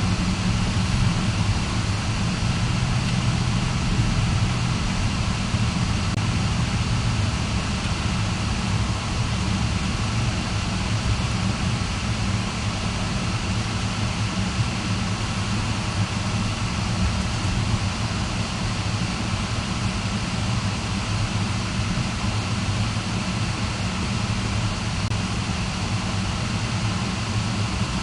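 Car running, heard from inside the cabin: a steady low engine hum with road noise that holds even throughout.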